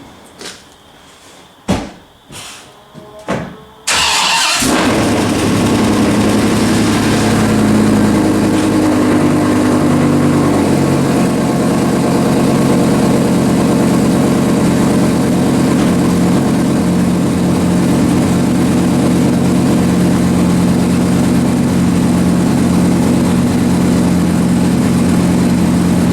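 Turbocharged Dodge Ram SRT-10's 8.3-litre V10 starting up after a few knocks: it fires suddenly and loudly about four seconds in. It runs at a higher fast idle, then drops to a lower, steady idle about ten seconds in.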